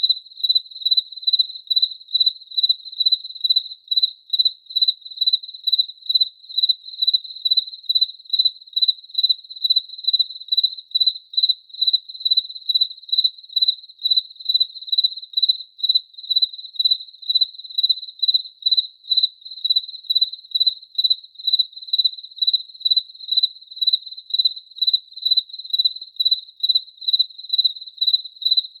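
A cricket chirping steadily: a single high, clear note repeated evenly about two to three times a second.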